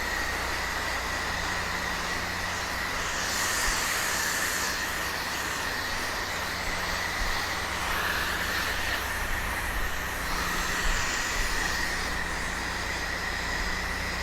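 Pressure washer running steadily, a constant machine hum under the hiss of the water spray, which swells a couple of times as the jet moves across the surface.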